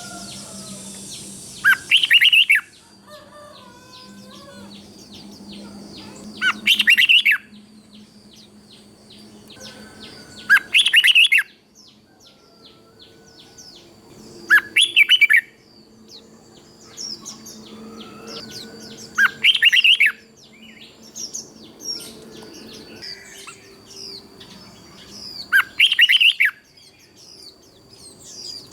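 Red-whiskered bulbul singing: six short, loud, warbling song phrases about four to five seconds apart, with softer chirps in between.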